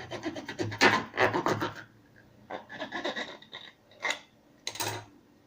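Scratchy rubbing and scraping in several bursts, dense for the first two seconds and then in shorter spells, from handling the slime-making containers and glue.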